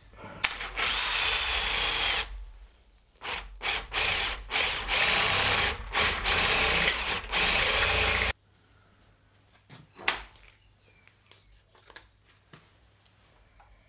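Power drill boring into a cast-iron bracket to drill out a seized bolt that a screw extractor would not shift, in a series of bursts: one about two seconds long, then a run of shorter and longer ones. It stops abruptly about eight seconds in, leaving only a few faint clicks.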